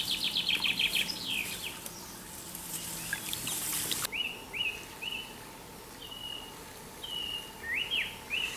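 Songbirds singing: a quick trill in the first second, then a string of short chirps, some rising and some falling. Under them runs a steady hiss that cuts off suddenly about four seconds in.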